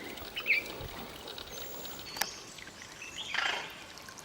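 Forest birds calling: a few short high chirps, then a high whistle and a harsher call, over a faint steady hiss. A single sharp click comes about two seconds in.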